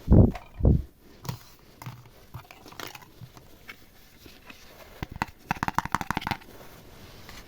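Slime being handled and mixed. Two heavy, low thuds come at the start, then scattered clicks, and near the end a quick run of sticky popping clicks lasting about a second.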